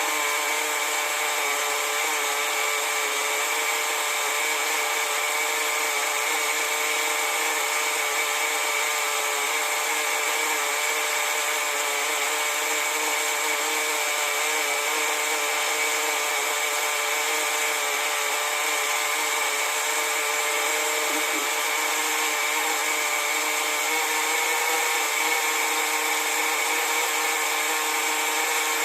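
Freshly rebuilt .15 nitro engine of a 1/10 RC buggy running steadily at one speed during break-in, held back from hard revving.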